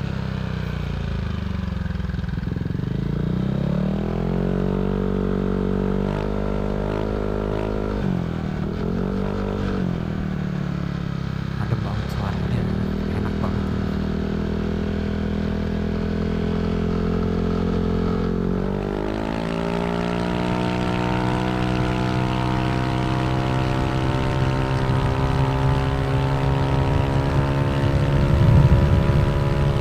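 Yamaha Aerox 155 scooter's single-cylinder engine running through a Villan SR1 aftermarket exhaust on the move. The revs rise and fall a few times, then climb steadily about two-thirds of the way in and hold high.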